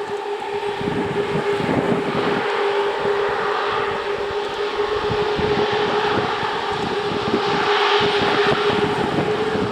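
Jet airliner engines running with a steady rushing noise and a held hum, growing slowly louder.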